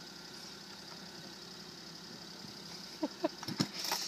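Faint steady hiss, then near the end a few short knocks and a rasping pull: the recoil starter of a cold chainsaw being pulled without the engine catching.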